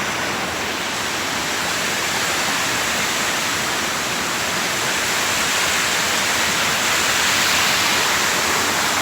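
Steady rush of water from a small creek with waterfalls.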